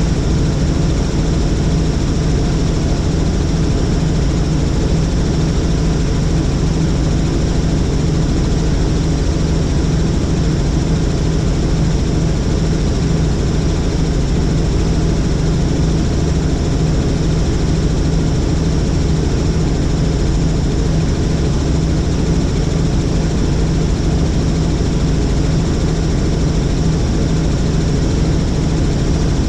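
Helicopter in flight, its engine and rotor running at a steady, unchanging pitch.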